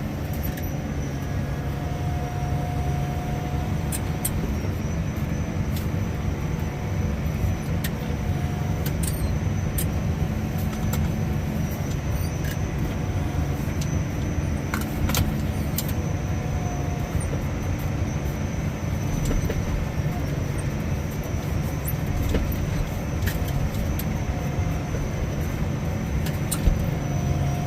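Loader tractor's engine running steadily under load, with a faint whine that comes and goes several times.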